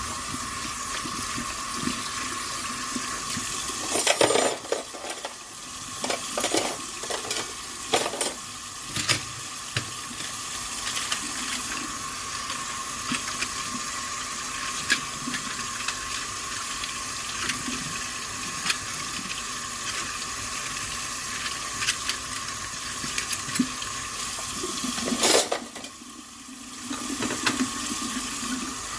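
Tap water running steadily into a kitchen sink while dishes are washed, with dishes clinking now and then, a cluster of clinks a few seconds in and a loud one near the end. The running water drops away briefly just after that loud clink, then comes back.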